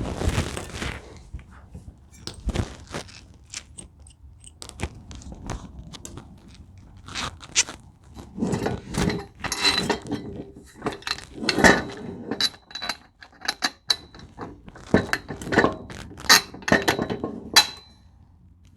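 Irregular clicks, knocks and rattles of metal hardware being handled and fitted while assembling a table saw stand, carriage bolts and spacers going into the legs, some strikes ringing briefly like metal. The knocking grows busier about halfway through.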